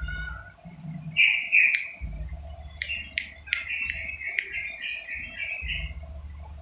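A trucukan (yellow-vented bulbul) singing in bubbly chirping phrases: loud chirps about a second in, then a run of quick sharp notes and warbling that stops about six seconds in. An on-and-off low rumble sits underneath.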